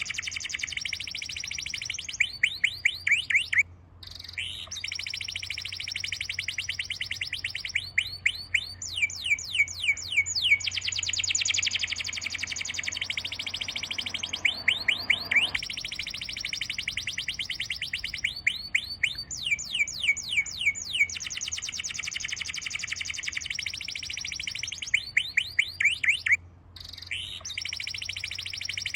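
Birds singing: long runs of fast, evenly repeated high whistled chirps and trills, with a brief break about four seconds in and another near the end.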